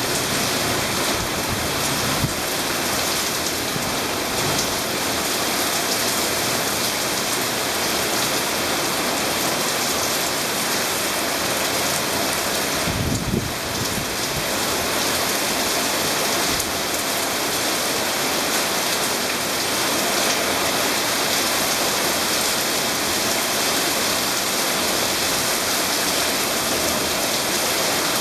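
Torrential rain from a squall line pouring down steadily, a dense hiss of rain hitting hard surfaces.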